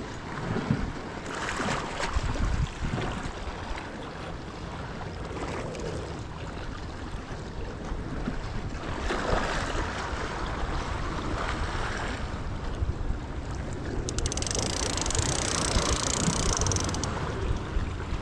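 Surf washing against rocky shore, surging and receding three times, with wind rumbling on the microphone. The last surge carries a bright hiss that stops abruptly.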